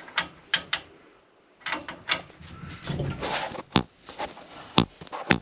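Irregular sharp clicks and knocks with a short scraping rustle about three seconds in: tools and pipe fittings being handled during plumbing work.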